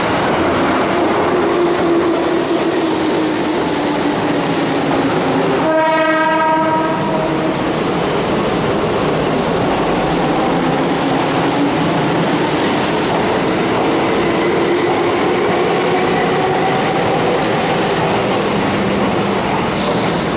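Keihan electric trains running through a station: wheels on rail joints and a motor whine that slowly falls and rises again. About six seconds in, one train horn blast of under two seconds.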